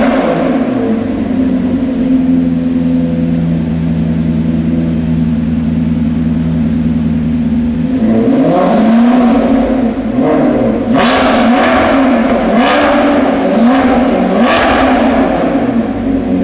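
Maserati GranTurismo MC Stradale's 4.7-litre V8 idling steadily, then revved in a series of about five short blips from about halfway through, dropping back to idle near the end.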